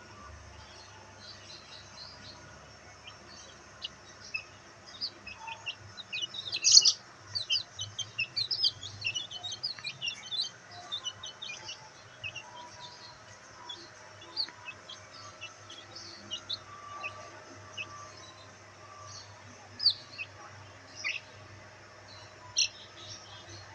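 Black bantam chicks peeping: many short, high chirps, a busy flurry from about six to twelve seconds in, then scattered single peeps.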